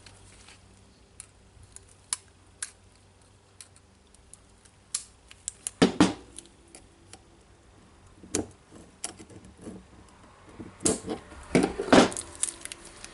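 Small metal parts of a rotary hammer's hammer mechanism clicking and clinking as a spring is worked into place by hand: scattered light ticks, with louder knocks about halfway through and a cluster near the end.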